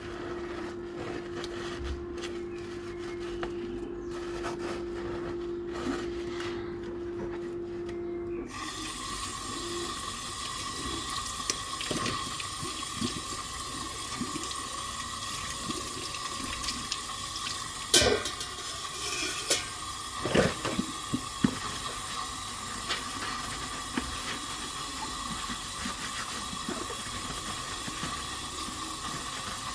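Kitchen tap running into a sink during dishwashing. The water starts suddenly about a third of the way in and runs steadily after a stretch of low, steady hum. Past the middle come a few sharp clinks and knocks of dishware, the loudest sounds.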